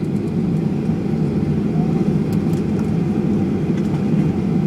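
Steady low cabin rumble inside a taxiing Boeing 737-800, its CFM56 jet engines running at taxi power.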